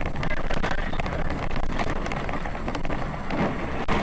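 A vehicle on the move: steady road and wind noise with many small clicks and taps through it.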